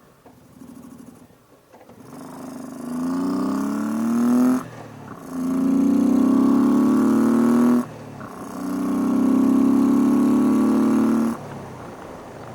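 Motorcycle engine accelerating hard away through the gears: the pitch climbs in three pulls with two brief gaps for upshifts, then settles to a quieter steady run near the end.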